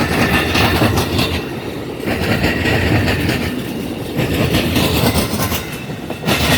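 Amtrak passenger train passing close by at speed, a steady rumble with its wheels clattering over the rail joints.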